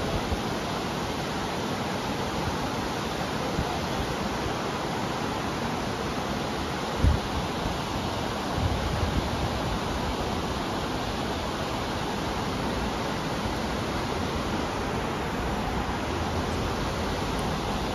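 Steady hiss of rain falling. A dull bump comes about seven seconds in, with a few softer knocks a second or two later.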